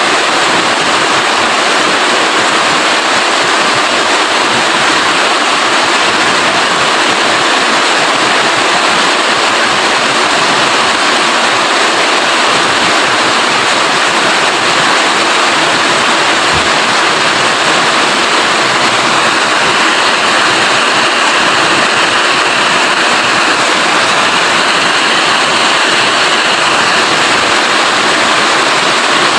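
Heavy rain falling steadily, a loud, even rush of drops with no pauses.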